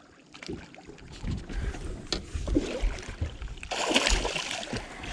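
Wind buffeting the microphone aboard a fishing boat, with scattered low knocks and a brief rush of noise about four seconds in.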